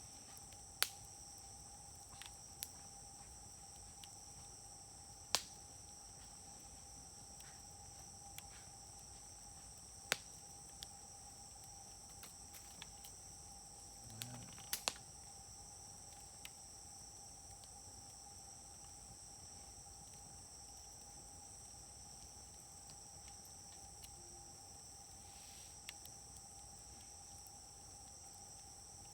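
Wood fire burning in a fire grill, giving scattered sharp pops and cracks, about ten of them, the loudest about a second in, about five and ten seconds in, and a quick cluster around the middle. Behind them, a steady high insect trilling, as of crickets.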